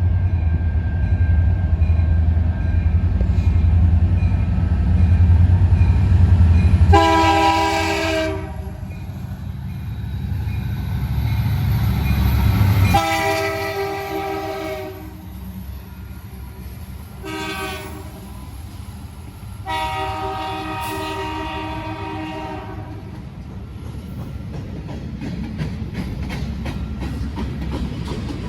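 Diesel freight locomotives rumbling past, then a multi-tone air horn sounding long, long, short, long, the grade-crossing signal, while the freight cars roll by.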